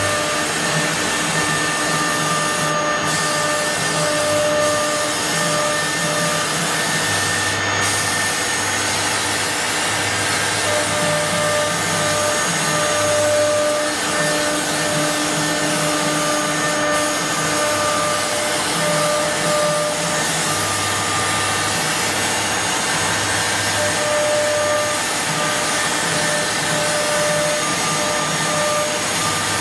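A CNC wood router running: a steady whine and rush of noise from the spindles and cutting, with a pitched tone that comes and goes and a low motor hum that switches on and off every second or so as the machine moves.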